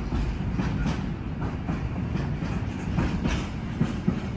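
Container freight train wagons rolling past. Their wheels clatter over the rail joints and points in a steady run of knocks over a continuous rumble.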